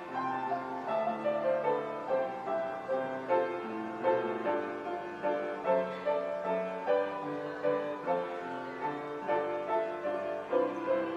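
Piano playing a steady flowing melody over sustained chords.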